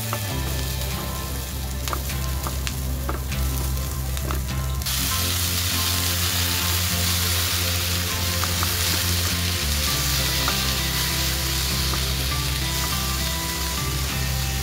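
Chopped onions sizzling in oil in a nonstick frying pan, stirred with a spatula that gives a few sharp scraping clicks. About five seconds in the sizzle turns suddenly louder and hissier as chopped tomatoes go into the pan, and it stays that way while they are stirred.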